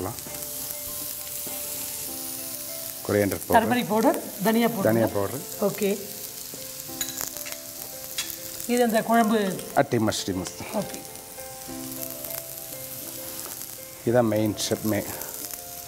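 Small onions, crushed garlic masala and dried red chillies sizzling as they fry in oil in a non-stick pan, with stirring. Three louder stretches of a pitched, voice-like sound lie over the sizzle, about three, nine and fourteen seconds in.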